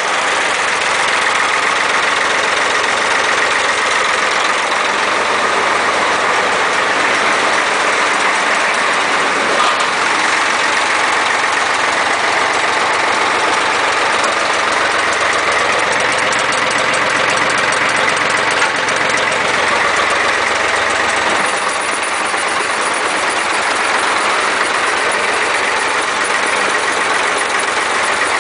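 Tractor idling and driving an air compressor through its PTO shaft, a steady chug-chug-chug with an occasional rumble from the worn PTO shaft.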